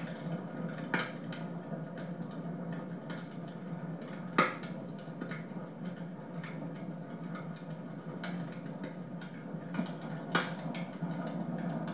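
Wood fire burning in a home fireplace, crackling with irregular pops over a steady hiss; the sharpest pop comes about four and a half seconds in.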